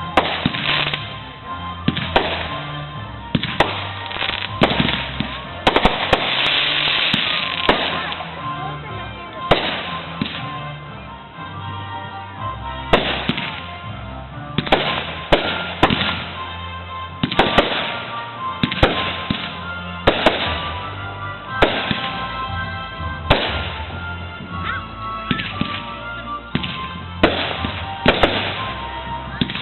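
Fireworks going off in a rapid series of sharp bangs and crackles, with music carrying a steady bass line underneath.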